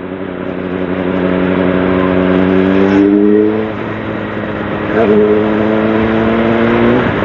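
2010 Honda CBR600RR's inline-four engine pulling under throttle, its pitch climbing, dropping away after about three and a half seconds and climbing again from about five seconds, as the bike accelerates through a gear change. A steady rush of wind noise runs beneath it.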